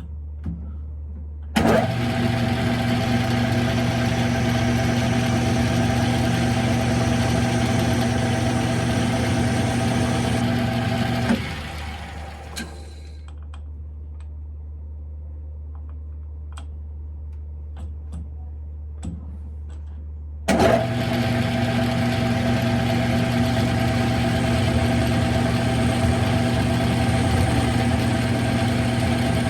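Smithy CB-1220XL combination lathe switched on and running steadily for about ten seconds, then switched off and spinning down. A few light clicks while it is stopped, then it starts again and keeps running.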